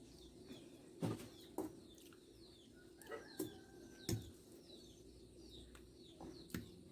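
Faint, scattered clicks and smacks of chewing and eating, about six in all. Small birds chirp repeatedly in the background.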